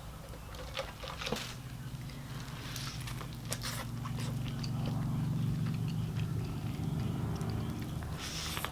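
Close-up chewing and biting of a fried chicken sandwich, with crunches and wet mouth clicks scattered throughout. A low steady hum runs underneath and grows louder in the middle.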